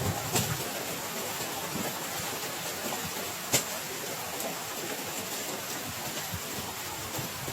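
Heavy rain falling steadily, with two sharp taps: one about half a second in and a louder one about three and a half seconds in.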